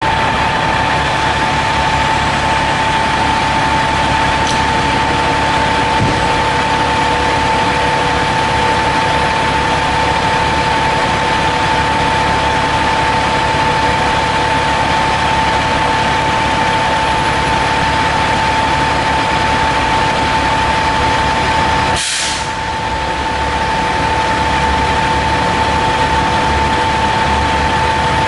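Fire engine's diesel engine idling steadily with a constant whine, and a short air-brake hiss about three quarters of the way through.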